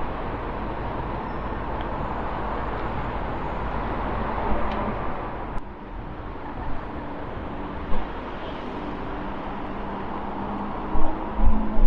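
Outdoor street noise: a steady rush of passing road traffic, with wind buffeting the microphone in a few sharp gusts near the end.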